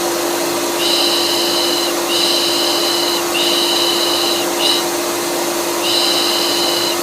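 Vacuum cleaner running steadily, with a rhythmic 'pış pış' shushing laid over it: hisses of about a second each, repeating with short gaps, as a soothing sound for a colicky baby.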